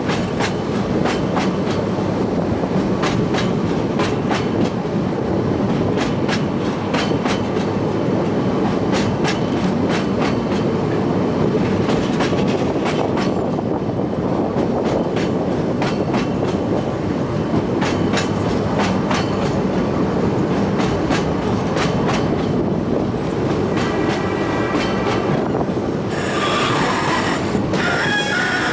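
Oigawa Railway train on its Abt rack section running steadily, its wheels clicking over the rail joints. High wheel squeal near the end.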